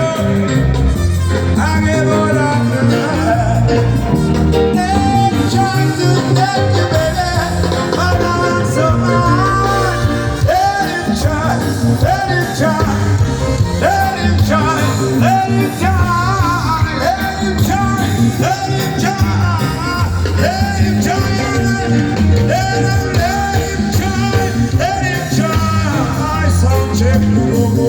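Live band playing amplified music through the stage sound system, with a short sliding melodic phrase repeating about every second and a half from around ten seconds in.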